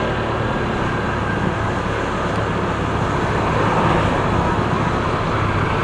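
Motorcycle on the move in traffic: steady wind and road noise with the engine running underneath.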